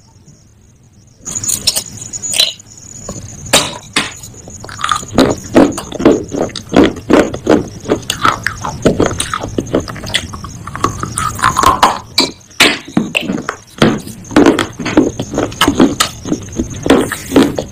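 Pieces of baked clay pot being bitten and chewed: a fast, uneven run of sharp crunches, several a second, starting about a second in.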